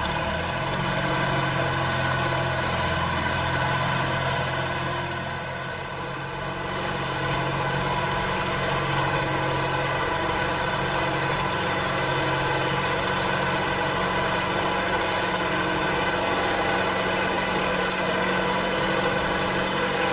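An engine of farm machinery running steadily, with a low hum under it that weakens a little past halfway.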